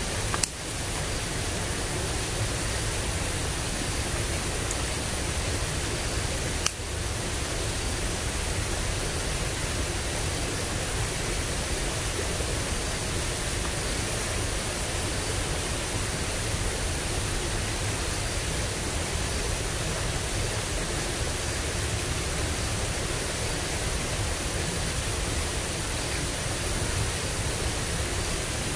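Steady rushing of water flowing in a small drainage ditch swollen by recent rain and flooding, with two brief clicks, one near the start and one about seven seconds in.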